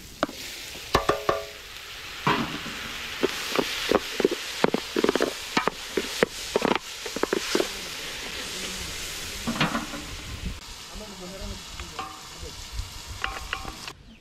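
Food frying and sizzling in a pot while a spoon stirs it, with repeated knocks and scrapes of the spoon against the pot.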